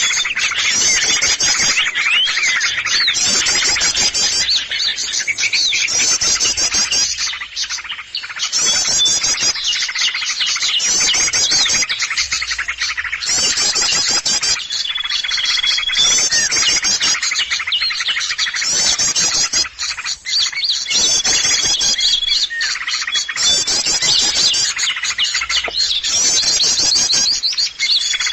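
Bird-trapping lure recording of a noisy chorus of many small songbirds, with dense, agitated twittering and chirping. A long level whistle comes back every several seconds, and the same calls repeat as the track loops.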